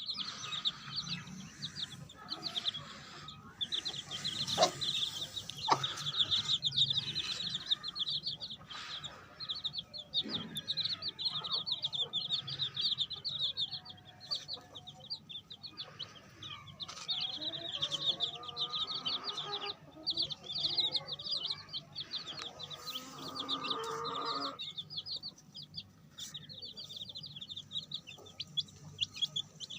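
Week-old chicks peeping: a continuous chorus of rapid, high chirps, with some lower calls mixed in, clearest a little after the twenty-second mark.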